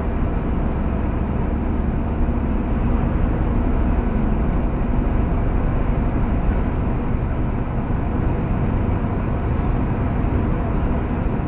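Steady road and engine noise heard inside a moving car's cabin: an even low rumble with tyre hiss.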